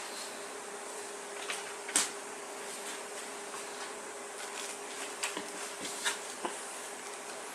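A few sharp clicks and knocks, the loudest about two seconds in and several more near the end, over a steady faint hum.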